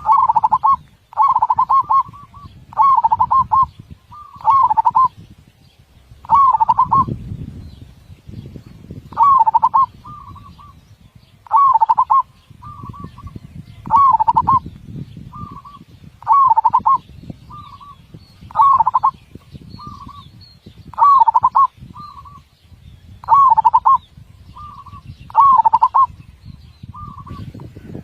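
Zebra dove (perkutut) singing: a loud phrase of close-set rolling coos about every two seconds, often followed by a shorter single note.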